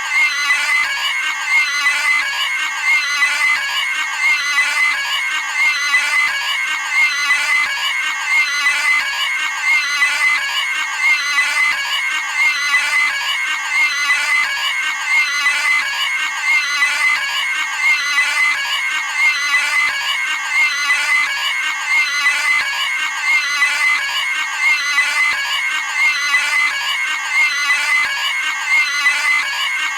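Cartoon pig's high-pitched squealing scream, repeated over and over at a steady pace, roughly once every second and a half.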